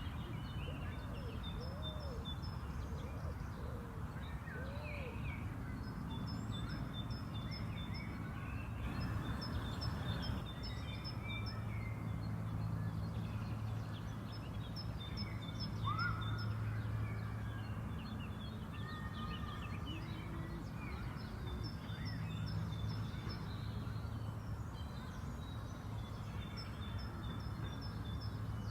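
Outdoor spring park ambience: several small birds chirping and singing in short repeated phrases over a steady low background rumble.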